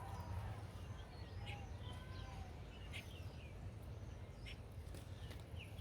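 Small birds chirping and singing: many short chirps and quick whistled notes scattered throughout, over a low steady rumble.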